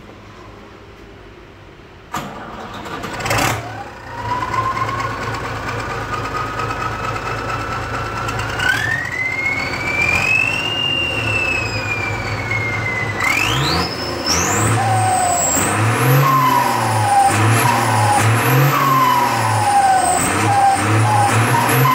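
Six-cylinder Ford tractor engine with a newly fitted 'super howl' turbocharger. After idling and two sharp knocks a couple of seconds in, the turbo whine climbs slowly in pitch as the engine speeds up. From about two-thirds through, the engine is revved again and again, and the turbo whistle swoops up and down very high with each rev.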